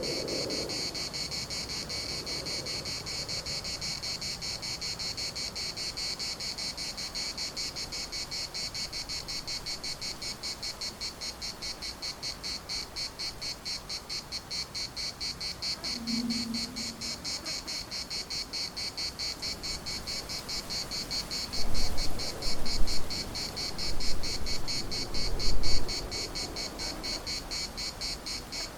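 Chorus of cicadas: a steady, high, rapidly pulsing buzz. Several low rumbles about three quarters of the way through are louder than the insects.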